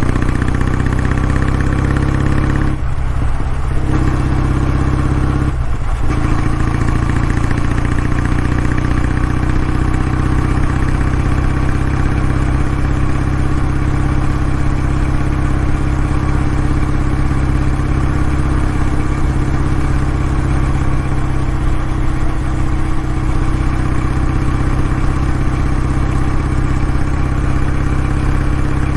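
Kawasaki W650's air-cooled parallel-twin engine running steadily through its exhaust, with two brief dips in the sound about three and six seconds in.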